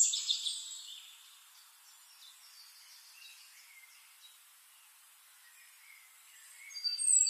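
Birds chirping over a faint hiss, loud in the first second, softer through the middle, and loud again just before the sound cuts off abruptly at the end.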